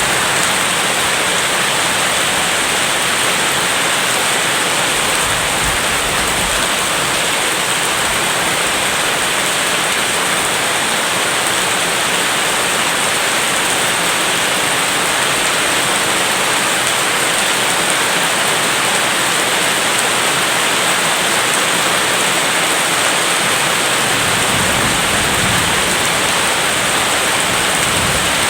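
Steady rain, an even hiss with no breaks. A faint low rumble comes in near the end.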